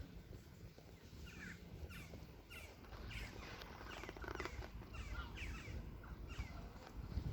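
Birds chirping: many short, quick, falling calls, starting about a second in, over a low steady rumble.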